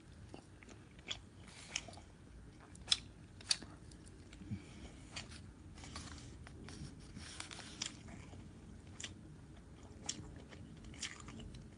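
Close-up chewing and biting as a person eats fish, with irregular sharp clicks and crunches scattered through.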